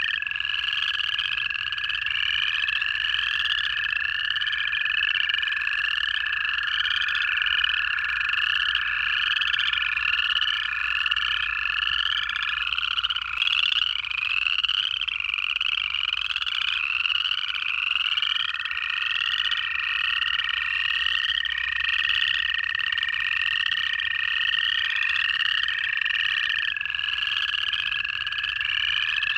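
Pond chorus of upland chorus frogs: a continuous run of overlapping ascending trills. Beneath it, American toads give long, steady, lower-pitched trills, two at slightly different pitches overlapping, each lasting many seconds before stopping and another starting.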